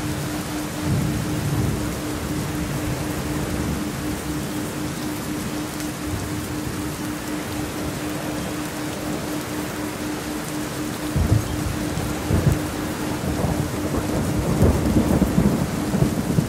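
Steady heavy rain with rolling thunder: low rumbles about a second in, then louder rumbling with a couple of sharp cracks in the last third. A steady low tone runs underneath.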